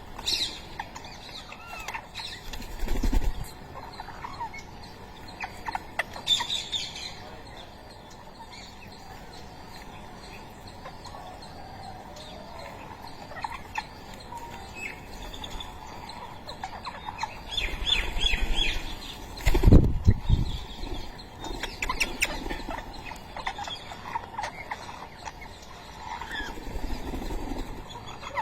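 Ringneck parakeets giving short, scattered chirps and calls as they feed on soft food, with a couple of low thumps, the loudest about twenty seconds in.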